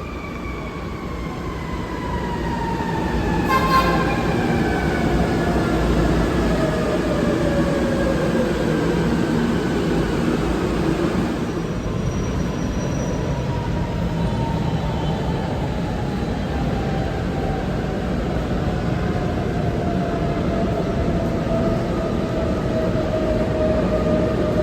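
MRT-3 electric train's traction motors whining, several tones falling slowly in pitch as the train slows, over a steady rumble of wheels on rail. A short horn toot sounds about three and a half seconds in.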